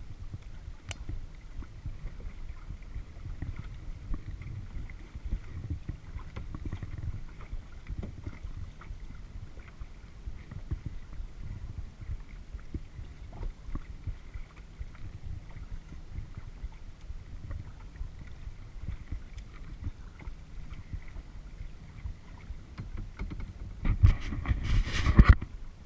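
Kayak on the water, heard through a GoPro: paddle splashes and water knocking against the hull over a low rumble of water and wind on the camera. A louder burst of rustling noise comes near the end and cuts off suddenly.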